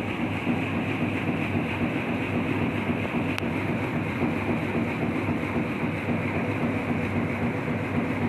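Grain separator machine running steadily, a dense even mechanical noise with a low hum. A single sharp click about three and a half seconds in.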